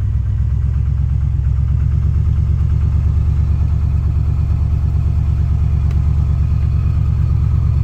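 A 2000 GMC 2500's 5.7-litre V8 idling steadily just after a cold start in 18-degree weather.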